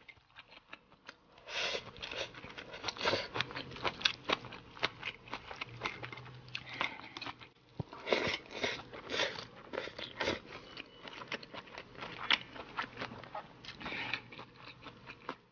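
Close-up chewing of a mouthful of rice with pickled greens: soft, wet crunches and bites in an irregular rhythm, beginning about a second and a half in.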